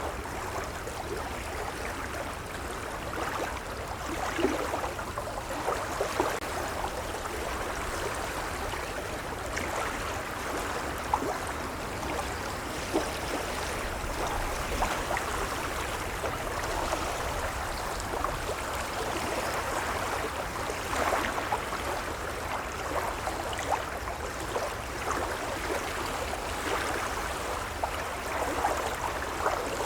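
Gentle waves lapping at the water's edge: a steady wash of water with many small splashes and trickles throughout.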